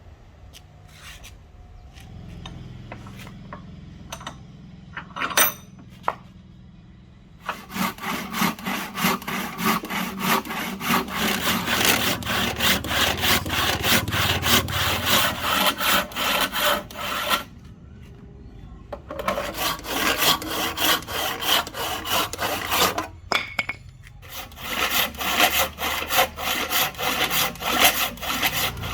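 Hand saw cutting through wood in quick, even back-and-forth strokes, in three runs with two short pauses. A few sharp knocks come before the sawing starts.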